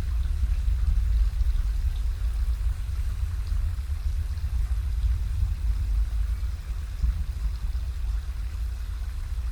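Deep, rough rumble of a distant Atlas V 531 rocket launch, easing slowly.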